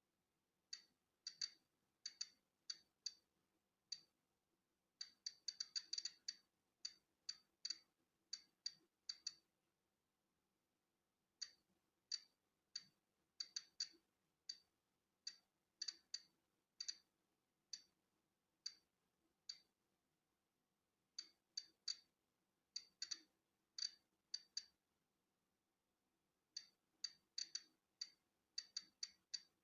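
Polon EKO-C digital Geiger counter clicking at natural background radiation: short, sharp, high clicks at random intervals, sometimes bunching into quick runs and sometimes leaving gaps of a second or two.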